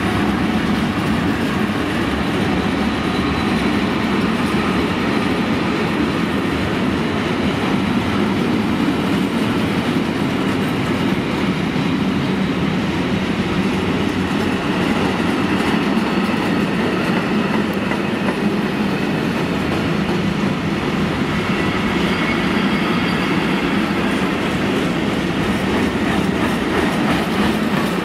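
Freight train of sliding-hood wagons rolling steadily past: an unbroken rumble of wagon wheels on the rails.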